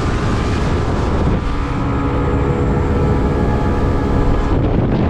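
A boat's outboard motor running steadily under way, with rushing wind and water noise over it. Its steady tones shift in pitch about a second and a half in.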